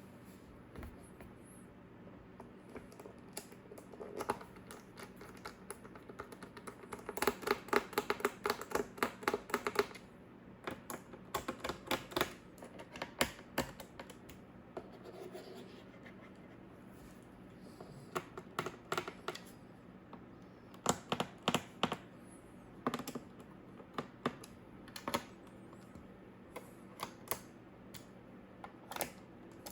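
Typing on the Lenovo Legion Pro 5i laptop's keyboard: clusters of quick key presses, with a fast run of keystrokes about seven to ten seconds in, then short scattered runs.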